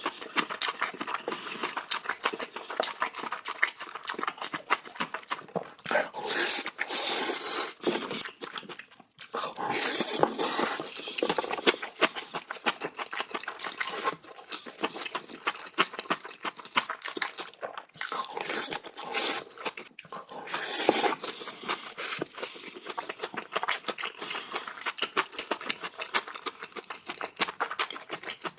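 Close-miked mouth sounds of a person eating bibimbap in big bites: wet chewing with many crisp clicks and smacks, and a few louder stretches.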